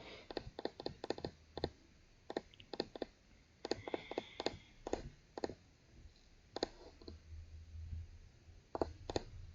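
Computer keyboard keys clicking in irregular short runs of typing, with pauses between.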